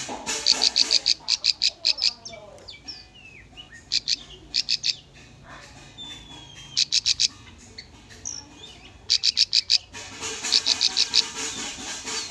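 Bar-winged prinia (ciblek) song: bursts of rapid, sharp, high-pitched notes repeated in quick runs, several times over, with softer scattered chirps between the bursts.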